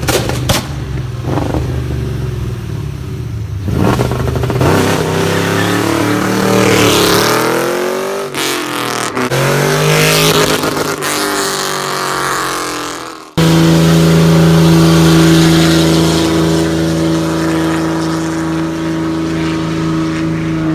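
Car engine revving, its pitch climbing and falling several times. After a sudden cut, a loud engine note held steady at one pitch.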